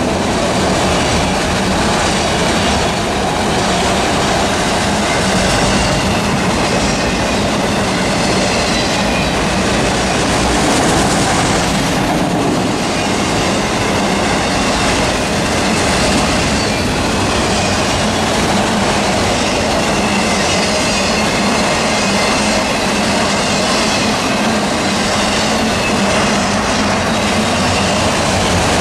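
Freight train cars rolling steadily past on the main line, a constant loud wheel-on-rail rumble with a faint high wheel squeal.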